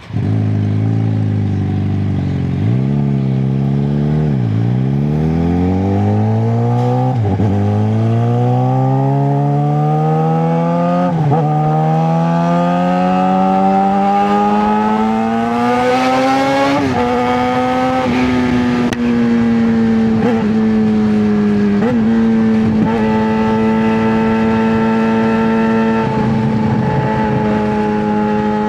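Straight-piped 2009 Suzuki GSX-R600 inline-four engine accelerating hard, its pitch climbing and dropping back at each of about five upshifts, then settling into a steady cruise with a few brief dips near the end.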